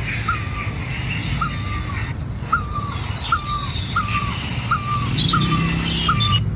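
A bird repeating one short call about eight times, each note a level pitch that drops at the end, over a background of other birds chirping.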